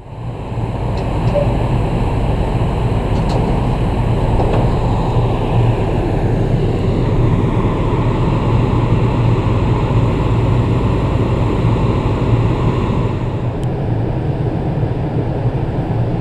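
A ship's departure gong (dora) rolling, a steady, dense rumbling wash with no separate strikes standing out. It is the signal that the ferry sails in 15 minutes.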